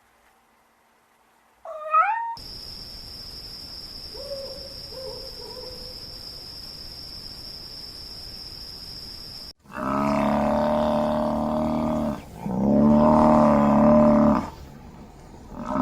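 Animal calls from several short clips: a brief rising call about two seconds in, faint calls over a steady high whine, then two long, loud calls held at a steady pitch, each about two seconds.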